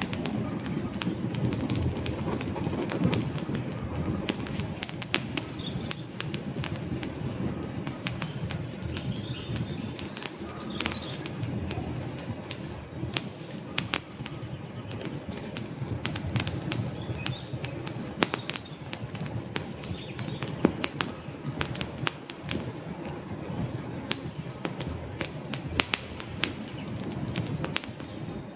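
Wood campfire burning: a steady low rush of flames with frequent sharp crackles and pops from the logs.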